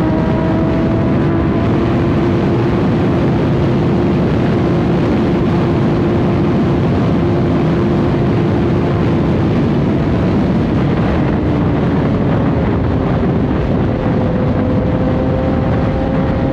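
Inline-four sport bike engine running at a steady cruise under heavy wind rush on the microphone. The engine note holds steady and eases down slightly about eleven seconds in.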